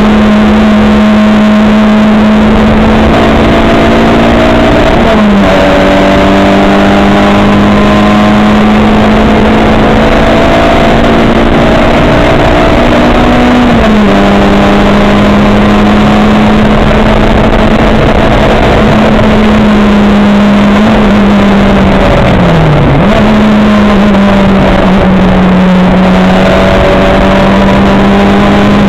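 A racing car's engine running hard at fairly constant high revs, its note creeping slowly upward and dropping briefly three times: about five, fourteen and twenty-three seconds in. The engine is loud, over a steady rush of road and wind noise.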